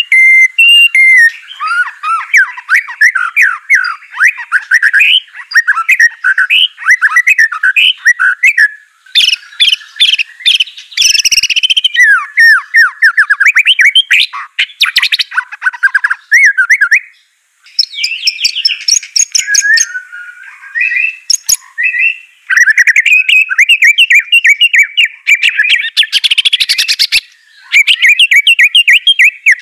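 White-rumped shama (murai batu) singing loudly and without pause: fast, varied whistled phrases and rapid chattering trills, with a brief break about two-thirds of the way through.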